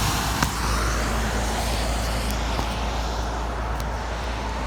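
Suzuki SV400 motorcycle's V-twin engine running, under a steady low rumble.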